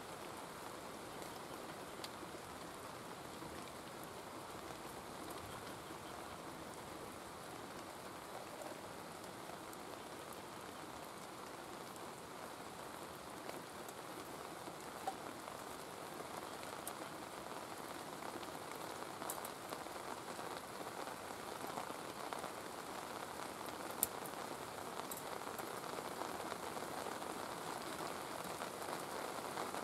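Steady rain falling on a surface, growing a little heavier toward the end, with a few sharp drip ticks.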